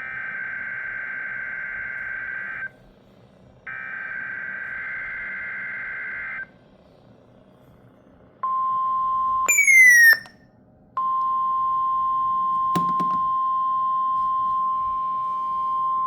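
NOAA Weather Radio alert signalling: buzzy SAME digital header bursts, each a few seconds long with about a second's pause between them, followed about eight seconds in by the steady 1050 Hz warning alarm tone. The alarm tone breaks briefly around the tenth second, with a short falling chirp, then resumes.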